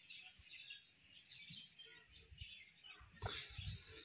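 Faint bird chirps, many short calls high in pitch. About three seconds in comes a louder low noise with one sharp knock.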